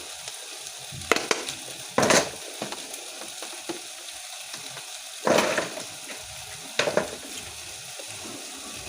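A pot of beef cooking down on the stove with a steady sizzle. A few short, louder scrapes or knocks break in, about four in all.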